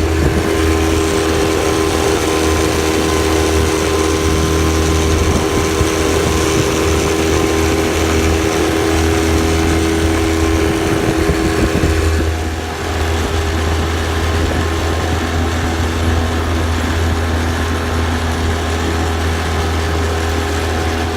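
Small fishing boat's motor running steadily at full throttle, which only gets the boat to about 10 miles an hour, with wind and water rushing past. The level dips slightly about twelve seconds in.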